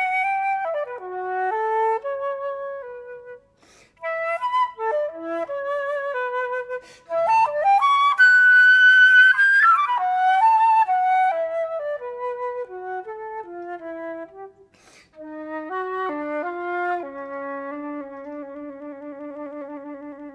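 Solo flute playing a melody in phrases broken by short breath pauses. It climbs to a loud, high held note about eight seconds in and settles at the end on a long low note with vibrato.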